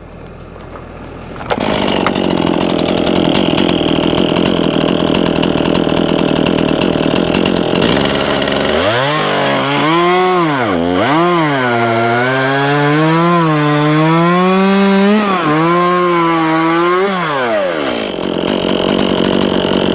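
Chainsaw throttled up to full speed about a second and a half in, bucking a log. Through the middle its engine pitch rises and falls repeatedly as the chain loads and unloads in the wood.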